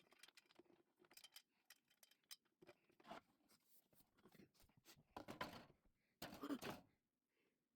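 Faint handling noises: scattered small clicks and rustles, with two louder rustling scrapes about five and six and a half seconds in.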